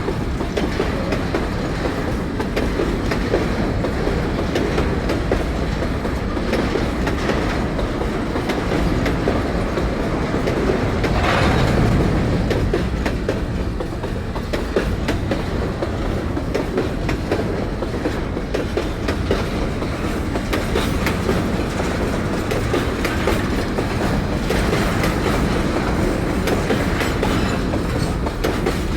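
Long freight train of empty FFD and HFD freight wagons rolling past, steel wheels clacking steadily over the rail joints. One louder swell comes about eleven seconds in.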